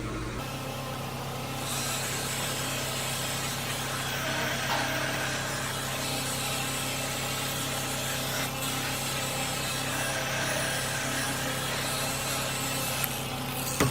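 Electric buffing machine running at low speed, its pad rubbing compound over a plastic headlight lens: a steady hum under a rubbing hiss that grows stronger about two seconds in, with a couple of short knocks near the end.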